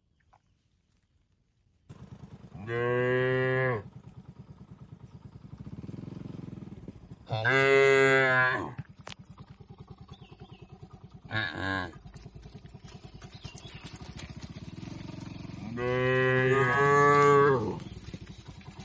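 Cattle mooing: four moos, the third short and the last the longest, each dropping in pitch as it ends. Underneath runs a low steady hum. The first two seconds are nearly silent.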